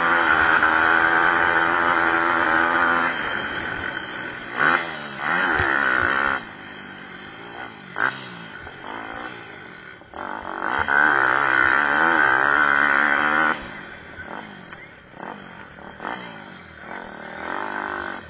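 Several small pit-bike engines revving hard as the bikes pass, pitch climbing and dropping with throttle and gear changes. The loudest passes come at the start, around five seconds in and from about ten to thirteen seconds, with more distant engines in between.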